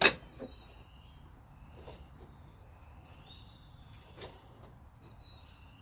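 A sharp knock right at the start, a lighter one just after and another about four seconds in, from parts or tools being handled on the car, with birds chirping in short high calls throughout.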